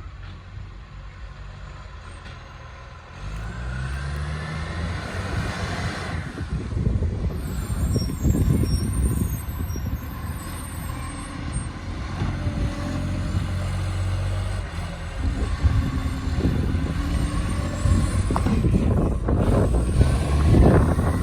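Garbage truck diesel engine running loud through a massive exhaust leak. It gets much louder about three seconds in and rises and falls in pitch as it revs.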